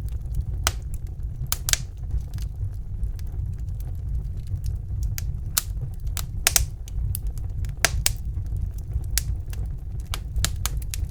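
Wood fire burning in a fireplace: a steady low rumble of the flames with irregular sharp crackles and pops, several louder ones about one and a half, six and a half and eight seconds in.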